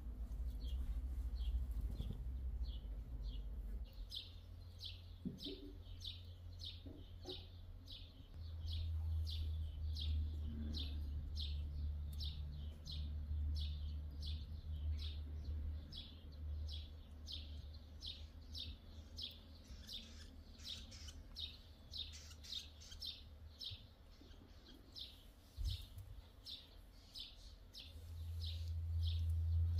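A small bird chirping over and over, short falling chirps about twice a second, starting about two seconds in. A low rumble runs underneath.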